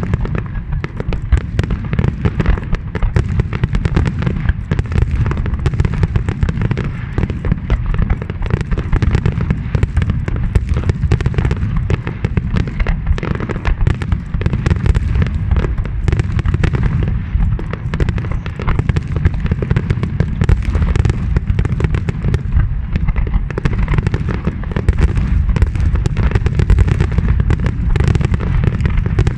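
A fireworks display going off in a dense, continuous barrage of bangs and crackles, the blasts overlapping with no gaps.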